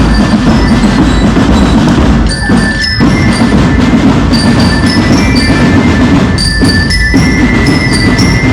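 Parade band music: steady drumming under a bright, bell-toned melody of held notes that step from one pitch to the next.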